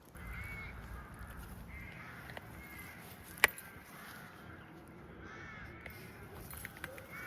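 Birds calling over and over in short, harsh calls, over a low rumble. A single sharp click about halfway through is the loudest sound.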